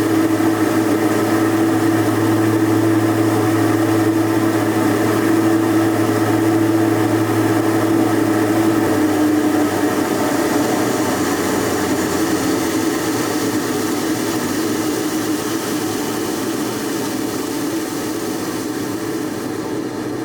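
A 100-year-old microhydro turbine running, the water jet from its spear valve striking the runner: a steady hum over a rushing spray. About nine seconds in the hum weakens, and the sound slowly quietens toward the end.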